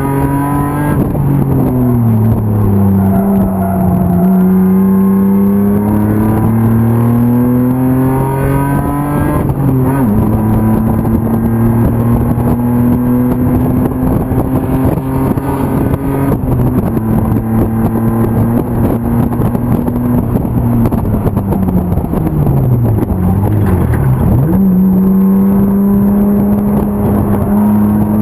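BMW E36's M50 straight-six race engine under load on track. The pitch climbs, drops sharply about ten seconds in as a gear changes, and holds steady for a while. It then falls away over a few seconds as the car slows, and jumps back up near the end.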